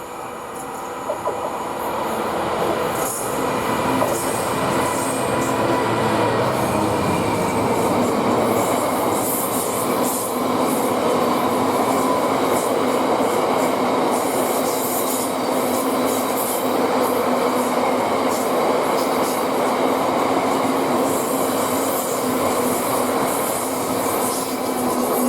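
A train passing close by: a long, steady rumble and rush of wheels on rail with a high squeal and hiss from the wheels. It builds over the first few seconds, holds steady, then cuts off suddenly at the end.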